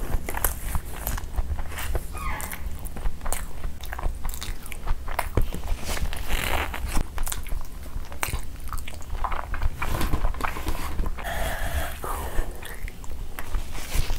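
Close-up chewing of a mouthful of rice and chicken curry, with many short wet mouth clicks, and fingers gathering the rice and gravy off a banana leaf.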